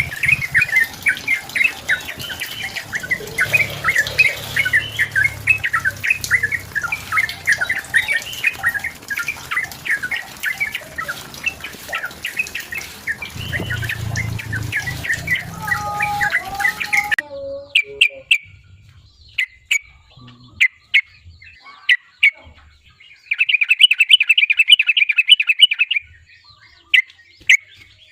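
Yellow-vented bulbul singing vigorously in fast, dense chattering phrases. About seventeen seconds in the background noise cuts off abruptly, leaving scattered short calls and a rapid trill lasting about three seconds.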